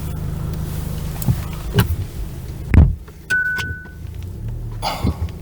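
Car door shut with a loud thud about three seconds in, over the low hum of the taxi's cabin, followed by a single short electronic beep.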